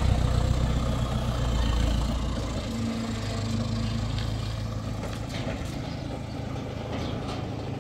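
An engine running steadily at idle with a low drone, a little quieter after about two and a half seconds.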